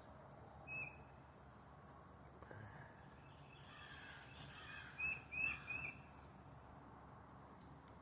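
Small songbirds calling: a string of high, thin chips that drop in pitch, with a quick run of three lower short notes about five seconds in.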